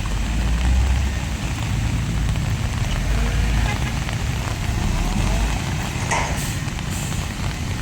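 Heavy earthmoving machinery's diesel engine running with a deep rumble, under the steady hiss of rain. A short, sharper sound comes about six seconds in.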